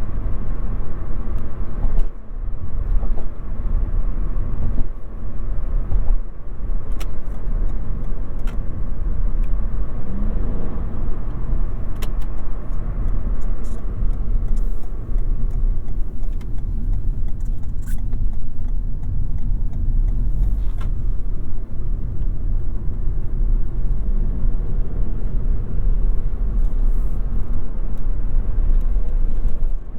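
A 2022 Toyota Yaris 1.5 Hybrid driving, heard inside the cabin: a steady low rumble of road and tyre noise, with a few short sharp knocks scattered through it.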